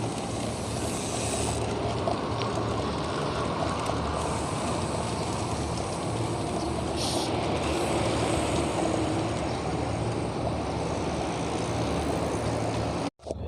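Steady wind and road noise during a bicycle ride, a continuous rush with a low rumble underneath.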